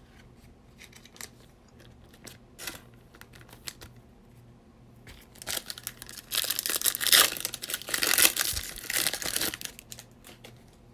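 A trading-card pack wrapper being torn open and crinkled: scattered light clicks of card handling, then about four seconds of dense crackling around the middle.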